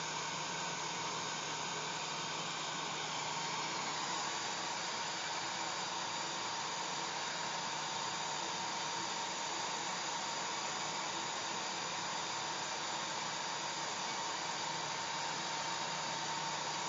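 Hair dryer running steadily: a continuous blowing rush with a steady motor hum and whine. The sound brightens slightly about four seconds in.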